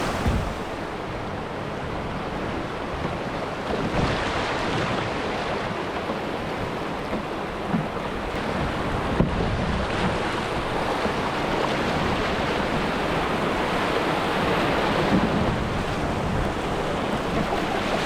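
River rapids rushing steadily, with some wind noise on the microphone.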